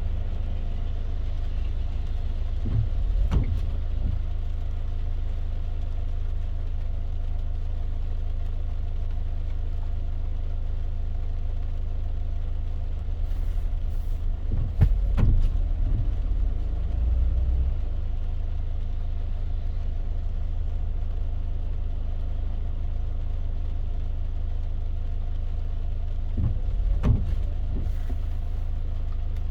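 Car driving in the rain: a steady low road and engine rumble under an even hiss, with three brief louder swells about twelve seconds apart.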